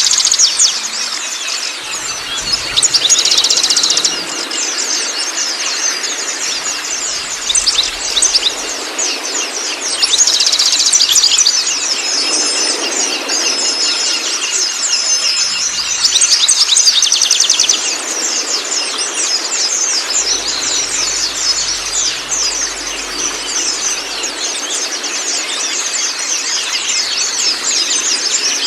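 Songbirds chirping and trilling in a dense, continuous chorus over the steady rush of flowing water. Short repeated whistled notes come in about midway.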